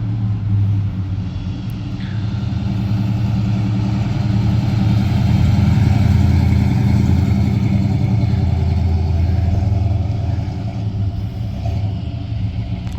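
1967 Pontiac GTO's V8 running while being driven, a steady low exhaust drone that swells a little in the middle and eases near the end.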